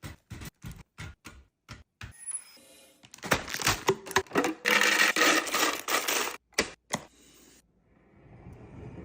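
Food containers and packaging being handled and set down: a run of sharp clicks and taps, then a few seconds of busy clattering and rustling that stops about seven seconds in.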